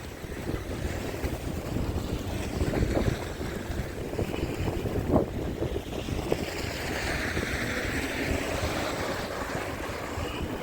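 Snowstorm wind buffeting the microphone in gusts, with a low rumble throughout. In the second half a rushing hiss swells and fades.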